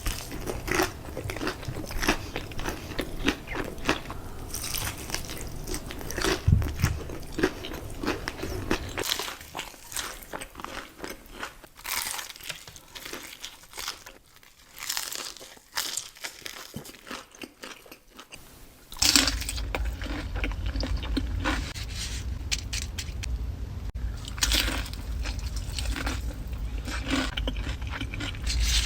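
Close-miked crunching bites and chewing of crispy fried hot chicken: a run of sharp crackles and munching, quieter for a stretch in the middle.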